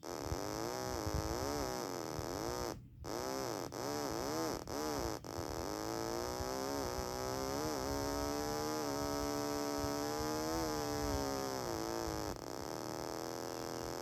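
Stylophone's buzzy electronic tone, the stylus slid up and down so the pitch swoops like a muscle car engine revving, with a few brief cuts in the first five seconds. Then a long tone that slowly rises and falls, dropping to a lower steady note near the end.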